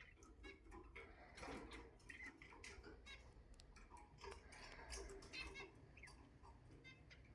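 Faint clicking and tapping, with a few short, soft chirps from a pet cockatiel.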